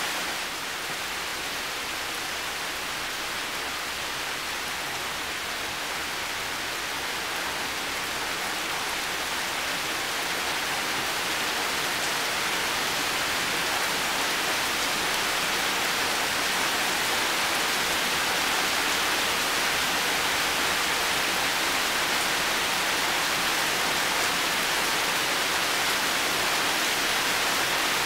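Heavy rain falling steadily, a dense even hiss. It drops a little just after the start and swells back over the next ten seconds or so.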